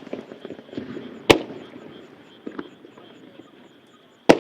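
Firework shells bursting in a starmine barrage: two loud sharp bangs, about a second in and near the end, with smaller pops between them and a rumbling echo trailing each burst.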